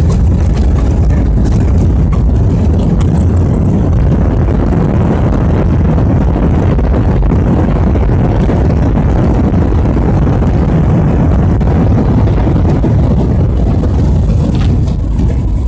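Cabin noise of an Airbus A319 on its landing rollout: a loud, steady roar of the CFM56 engines and the rumble of the runway as the aircraft decelerates, swelling in the middle and easing slightly near the end.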